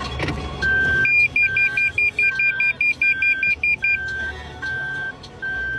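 Car warning chimes: a steady beep repeating a little more than once a second, joined for about three seconds by a faster, higher beep at about five a second.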